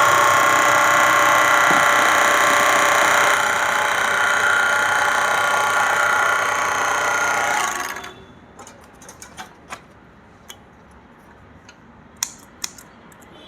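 Three-thread overlock machine (serger) running steadily at sewing speed as it stitches a test seam. It stops abruptly about eight seconds in, followed by a few light clicks.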